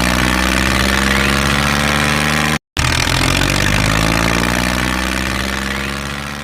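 Tractor engine running steadily. It cuts out completely for a split second partway through, resumes, then fades out near the end.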